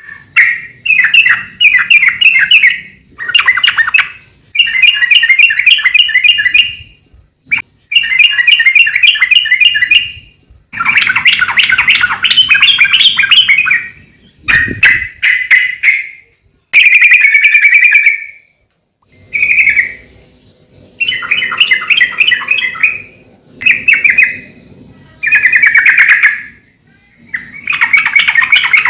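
Yellow-vented bulbul (trucukan) singing loudly. It repeats short bubbly, warbling phrases about one to three seconds long, with brief pauses between them.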